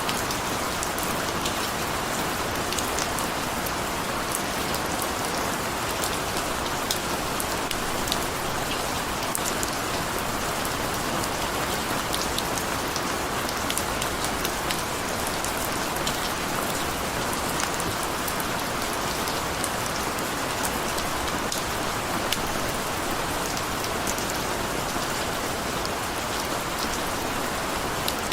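Steady rain falling, a constant hiss with many small drops ticking on a hard surface.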